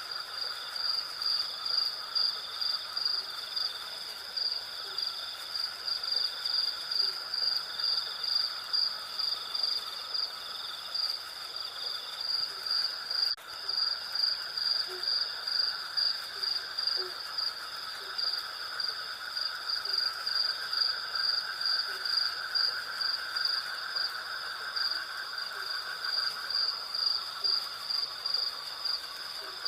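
Night insect chorus of crickets and cicadas: a loud, high, rhythmic pulsing chirp over a second, steadier trill and a lower buzzing hum. Faint low notes repeat about once a second underneath, and there is a brief click about a third of the way through.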